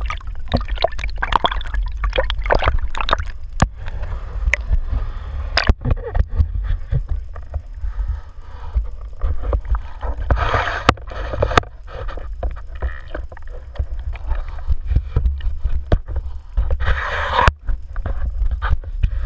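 Water gurgling and splashing around a small boat, with many sharp knocks and a steady low rumble underneath. Two louder splashy swells come about halfway through and near the end.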